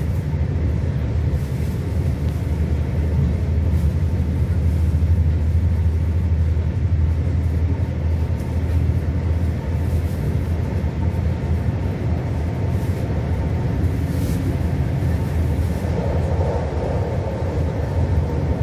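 Passenger train running steadily at speed, a low rumble heard from inside the carriage, with a few faint clicks.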